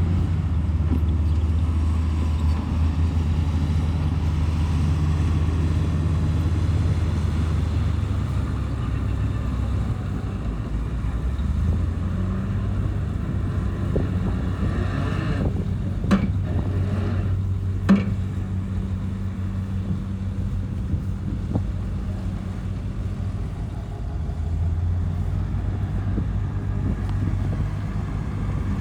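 Heavy diesel engine of a bulldozer running steadily under load, its pitch shifting a few times. Just past halfway there is a noisier stretch with two sharp knocks about two seconds apart.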